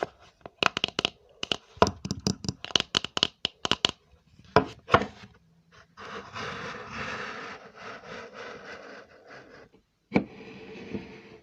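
ASMR trigger sounds made by hand: quick runs of sharp tapping or clicking on a hard object, two louder clicks, then a few seconds of scratching or rubbing, with one more click and a short rub near the end.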